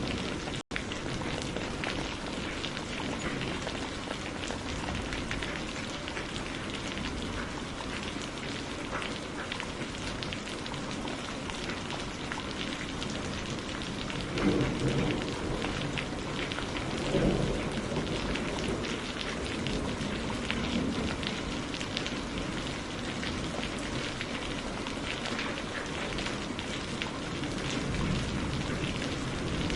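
Steady rain pattering on a surface, dense with fine drop ticks. Two short low rumbles of distant thunder come about halfway through, and a split-second dropout breaks the rain just under a second in.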